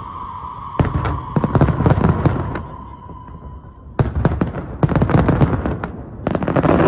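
Fireworks going off: rapid volleys of sharp bangs and crackling, easing off about two and a half seconds in. A sharp bang about four seconds in sets off another crackling volley, which swells again near the end. A steady high tone runs underneath until that bang.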